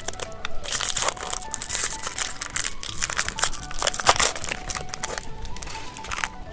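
Plastic snack wrapper being crinkled and torn open by hand, a dense irregular crackling that is busiest in the middle, over light background music.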